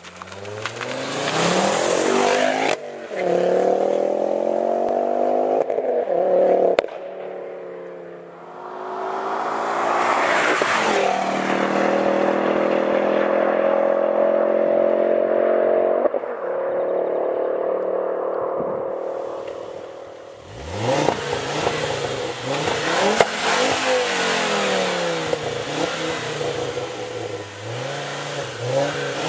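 Ford Focus RS Mk2's turbocharged five-cylinder engine through a catless, non-resonated Mongoose turbo-back exhaust, pulling up in revs several times with its pitch climbing over a few seconds and falling back between pulls. Sharp crackles and pops come in the later part.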